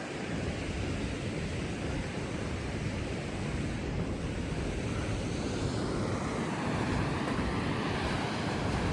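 Steady rushing roar of a waterfall, mixed with wind on the microphone, slowly getting a little louder.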